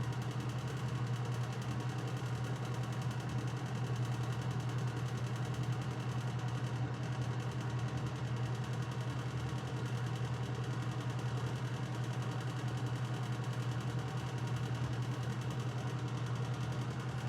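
A steady low hum that does not change, with faint background hiss.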